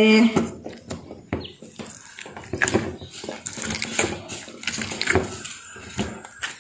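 Mixed glitter and aloe vera gel slime being squeezed and pushed into a small plastic bottle by hand: irregular wet squelches and clicks.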